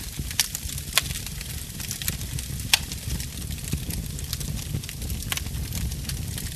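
Burning wood crackling, with sharp pops at irregular moments (the loudest about 1 and 2.7 seconds in) over a steady low rumble of the fire.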